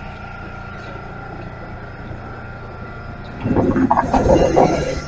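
Shin-Keisei 8800 series electric train at the station platform with a steady hum. About three and a half seconds in, a louder, rougher noise starts.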